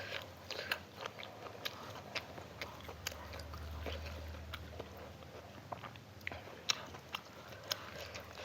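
A person chewing food close to the microphone, with many short, irregular wet clicks and small crunches.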